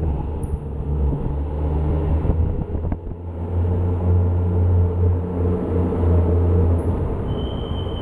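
Toyota 1JZ-GTE VVTi turbocharged straight-six running through a custom 3-inch exhaust with a JASMA muffler, a steady deep exhaust note. It dips briefly about three seconds in, then runs louder for a few seconds, with a faint high whine near the end.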